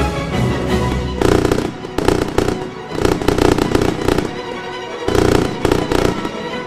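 Fireworks going off, with bursts and crackles about five times, over background music.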